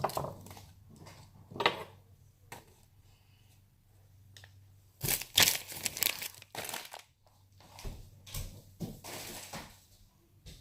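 Crinkling and rustling handling noises in a string of short bursts, loudest and densest about five to seven seconds in.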